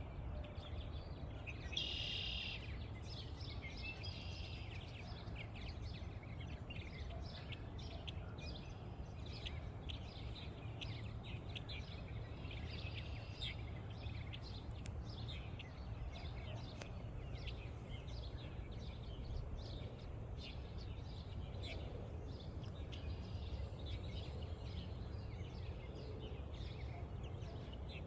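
A colony of purple martins chirping and chattering continuously, many short calls overlapping, with a burst of louder chirps about two seconds in. A steady low rumble of wind or background noise runs underneath.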